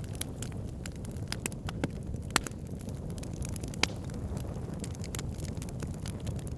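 Wood fire burning in a fireplace: a steady low rumble of the flames with irregular sharp crackles and pops, two louder pops about two and a half and four seconds in.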